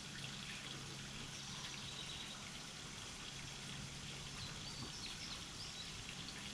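Steady background hiss with a low hum, and a few faint, high chirps of small songbirds about four and a half to five and a half seconds in.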